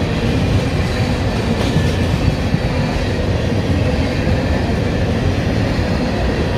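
CSX freight train's cars rolling past, a steady loud rumble of steel wheels on the rails.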